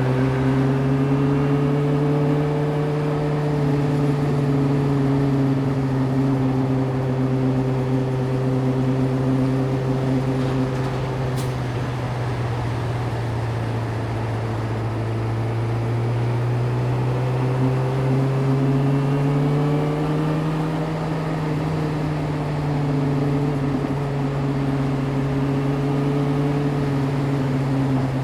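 Yamaha YZF-R6 inline-four engine running at a steady cruise, its pitch drifting gently: rising a little at the start, sinking slowly for about ten seconds, then climbing again about two-thirds of the way through before levelling off.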